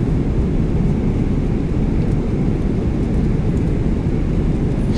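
Boeing 777-300ER cabin noise in flight: a steady, loud low roar of engines and airflow, even throughout.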